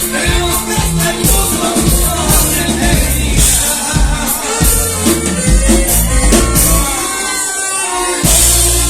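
Norteño band playing live, with a steady bass and drums under the melody and some singing; the bass drops out for about a second near the end, then comes back in.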